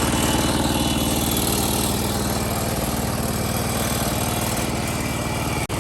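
Engine of a farm machine running steadily with an even, rapid pulse, cutting out for an instant near the end.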